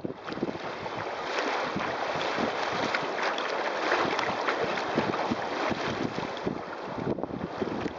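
Strong wind buffeting the microphone over water rushing and splashing against a sailing kayak's hull, with many short splashes.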